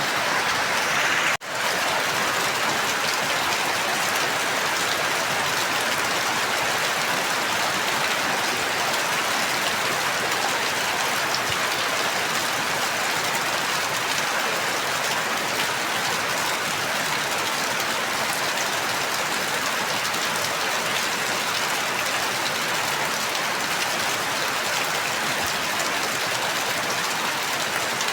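Steady heavy rain falling. It is an even hiss with no distinct drops or thunder, and it cuts out for a split second about a second and a half in.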